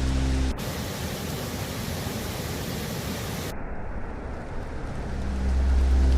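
Steady hiss of rain ambience. A low droning hum underneath stops abruptly about half a second in and comes back near the end, and the high part of the hiss cuts out suddenly a little past halfway.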